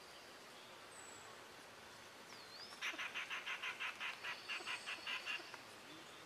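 A bird calling: a rapid run of about a dozen notes, about five a second, starting about three seconds in and lasting a couple of seconds.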